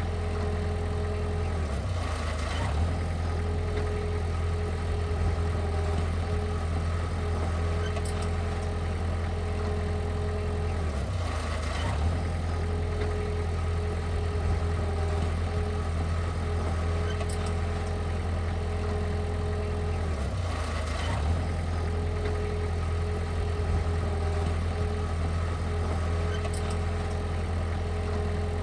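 Heavy machinery engine running steadily with a deep low hum. A slight change in its note comes back about every nine seconds.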